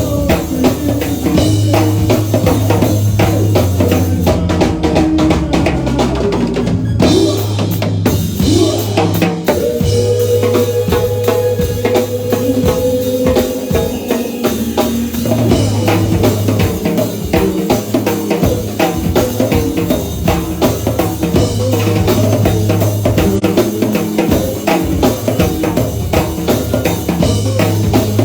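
Live band playing, a drum kit keeping a steady beat over a bass line. One note is held for a few seconds about ten seconds in.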